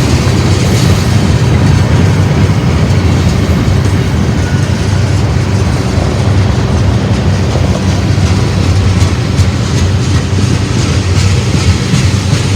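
Freight train passing close by: a steady loud rumble with continuous clickety-clack of wheels over the rail joints.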